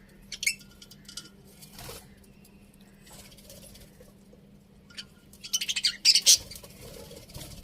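Budgerigars chirping in short, sharp, high calls, with a quick run of rapid chirps near the end.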